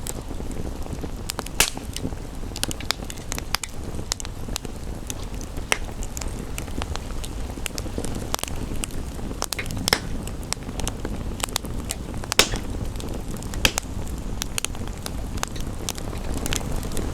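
Wood fire crackling, with scattered sharp pops several times a second and a few louder snaps, over a steady rushing hiss of rain.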